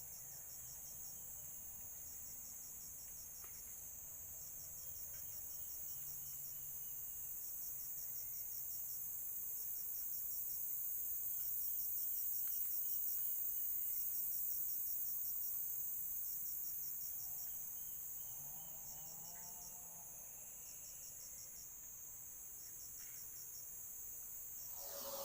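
Insects chirping in short, evenly repeated trains of high pulses, over a steady faint hiss.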